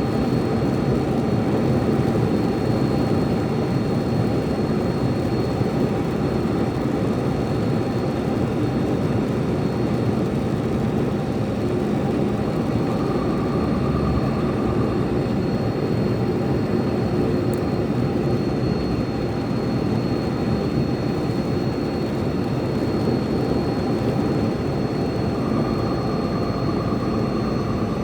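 Truck's diesel engine and road noise in a steady, unbroken drone, with a thin high whine throughout.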